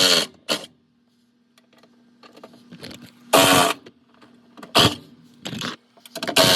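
A power driver runs in several short bursts, each under half a second, spinning out 10 mm bolts, over a faint steady hum.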